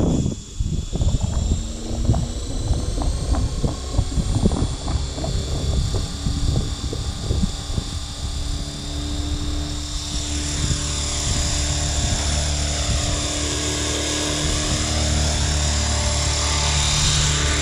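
Radio-controlled model helicopter hovering inverted, with a steady high whine from its motor and rotors. Wind buffets the microphone with gusty rumbles through the first half, then the helicopter's drone fills out and holds steady.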